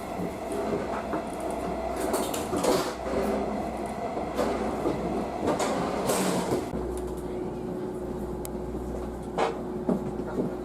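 Train noise: a rail car's rumble with scattered clicks and knocks, and a steady low hum with a steady tone setting in about two-thirds of the way through.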